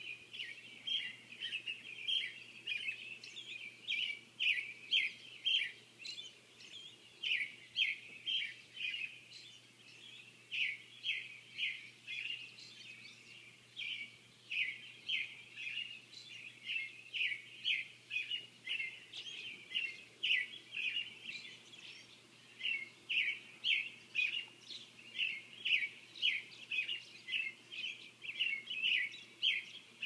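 Birds chirping in the dawn chorus before first light: short, high chirps in quick runs, one run after another without a break.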